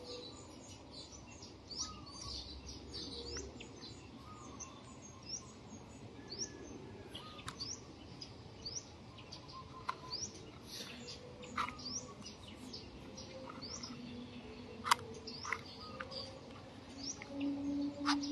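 Small birds chirping in the background: many short, quick chirps throughout, with a few sharp clicks in the second half.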